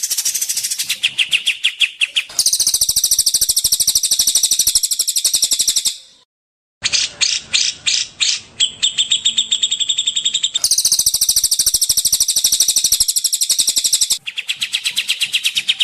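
Songbird singing fast trills of sharp high notes, about a dozen a second, in a chain of phrases that change pitch, broken once about six seconds in by a sudden half-second gap.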